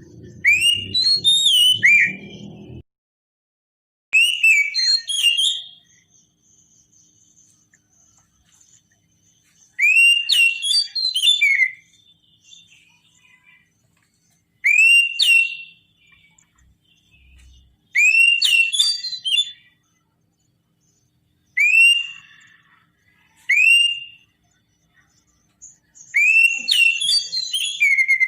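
Oriental magpie-robin singing: loud whistled phrases built from rising, upslurred notes, about seven phrases of one to three seconds each with pauses between. A low hum underneath cuts off about three seconds in.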